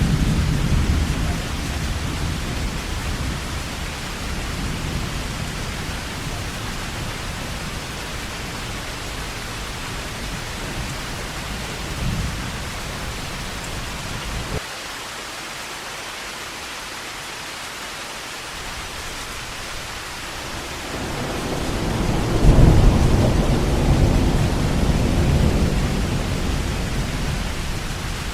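Heavy rain falling steadily with rolling thunder. A deep rumble dies away over the first several seconds and drops out suddenly about halfway through, then a new roll of thunder builds about two-thirds of the way in and slowly fades.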